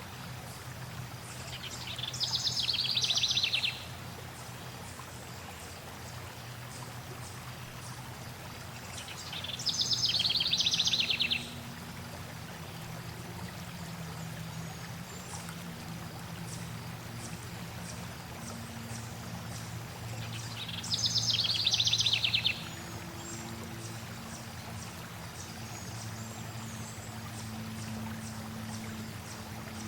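Stream water running steadily, with a songbird singing three times. Each song is a fast trilling phrase about two seconds long, and the songs come roughly ten seconds apart.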